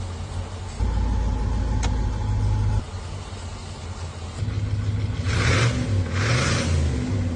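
Dodge Challenger engine running with a deep low rumble. It steps up louder for about two seconds, settles, then is revved again with wavering pitch, with two short hissing whooshes in the second half.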